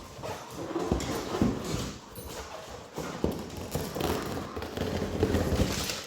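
Malinois puppy scuffling with party balloons: an irregular run of knocks, scrabbling and rubbery rustling, with no clean pop.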